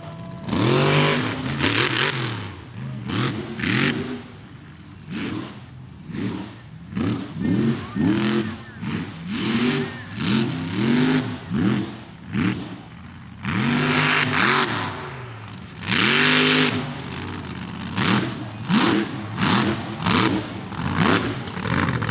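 Mega truck engine revved hard over and over, about one to two quick revs a second, with a few longer full-throttle pulls near the start and in the second half.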